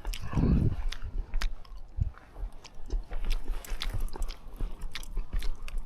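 Close-up chewing: a person eating, with irregular wet mouth clicks and crunches, and a brief low mouth sound about half a second in.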